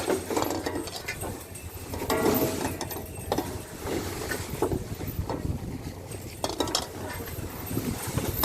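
Deck machinery on a fishing trawler clanking and rattling irregularly, with ratchet-like clicks over a steady low engine rumble.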